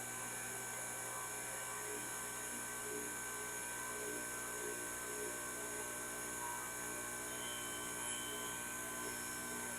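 Steady machine hum with several constant tones, holding unchanged throughout.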